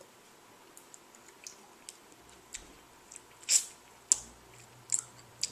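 Quiet eating and handling sounds as a hot-sauce-topped breakfast taco is tasted: scattered small clicks, with one louder short rustle or crunch about three and a half seconds in and a few sharper clicks near the end.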